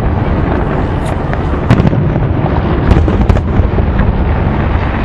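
Fireworks display: a dense, continuous rumble of distant aerial shell bursts, with several sharper bangs standing out from it.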